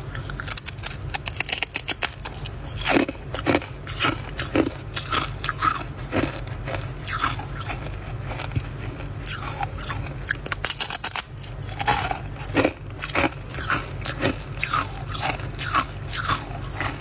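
Frost being bitten and chewed, crisp crunches and crackles coming in irregular clusters throughout.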